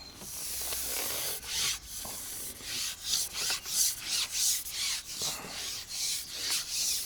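A carbon fishing pole being shipped back while a hooked fish is played: a run of rubbing, rasping strokes, about two to three a second after the first couple of seconds.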